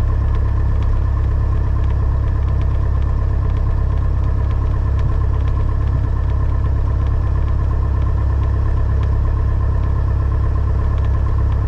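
Piper Cherokee 180's newly installed four-cylinder Lycoming engine and propeller running at low power, a steady drone heard from inside the cabin.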